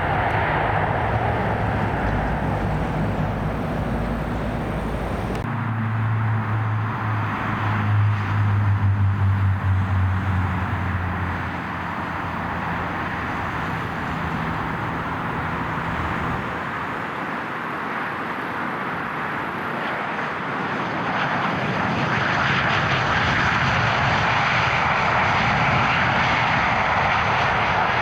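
Jet aircraft engines running, a steady rush of noise. About five seconds in there is an abrupt change where the sound switches from a Boeing 767-200 to a Bombardier CRJ-900, whose twin rear-mounted turbofans carry a low hum for several seconds. The engine noise grows louder again near the end.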